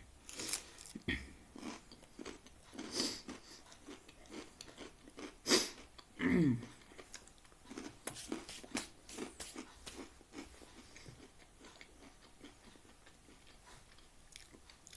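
Crunching and chewing of knäckebröd (crispbread), close to the microphone. The crunching is densest in the first half and thins out toward the end.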